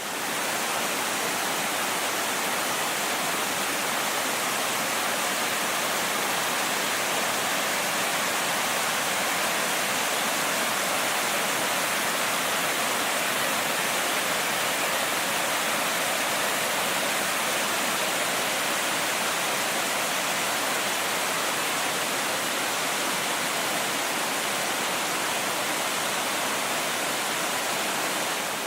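Small mountain waterfall, more a cascading stream than a falls, with a steady, unbroken rush of water.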